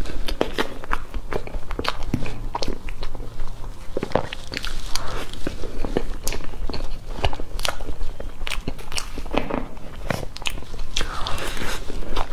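Close-miked eating of cream-frosted sponge cake: soft wet chewing and lip smacks, with many small mouth clicks, and a metal spoon scooping into the cake.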